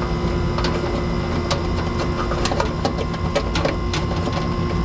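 Steady machine hum with several light clicks and taps scattered through it, as a multimeter is set to ohms and its test leads are handled.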